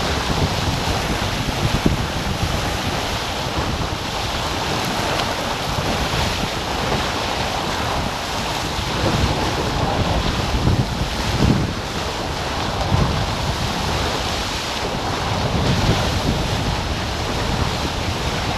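Wind buffeting the microphone over steady water rush from a sailing catamaran moving under sail, with gusty low swells throughout.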